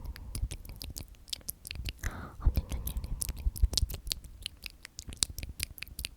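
Close-miked ASMR mouth sounds: rapid wet clicks and smacks of lips and tongue, from repeated whispered 'omnomnom', with a breathy whisper about two seconds in.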